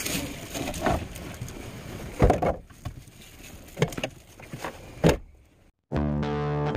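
Irregular knocks and rustling handling noises, with sharp clicks about two, four and five seconds in. After a short silence, music with distorted electric guitar and bass begins near the end.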